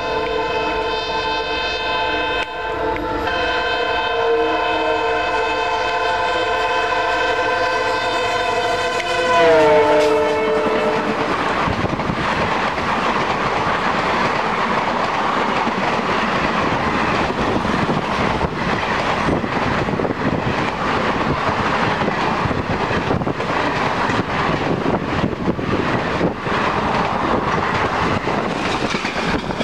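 EMD WDP-4 diesel locomotive blowing its horn in one long continuous blast as it approaches at speed; the horn's pitch drops suddenly as it passes, about nine seconds in. The express's coaches then rush past close by with a steady rushing noise and wheels clattering over the rail joints.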